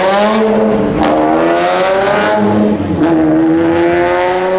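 Race car engine accelerating hard on track, its pitch climbing steadily through the gears, with a shift about a second in and another near three seconds in.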